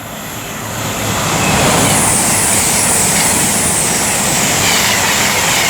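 Two coupled Class 221 Super Voyager diesel-electric units passing at speed: a loud rush of engine and wheel-on-rail noise that builds over the first two seconds, then holds steady.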